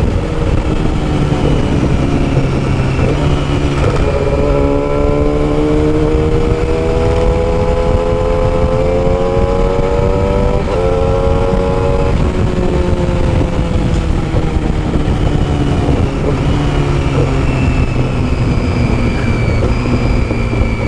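Yamaha R6 600 cc inline-four sport bike running through a custom exhaust while riding, the engine note climbing steadily for several seconds and then falling away, over steady wind rush.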